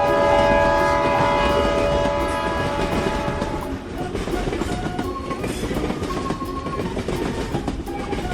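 Train sound effect: a horn blowing for the first three to four seconds and then fading, over the rumble and clickety-clack of train wheels on the rails.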